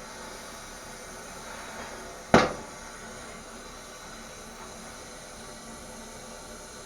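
A single sharp knock about two seconds in, dying away quickly, over a steady hiss.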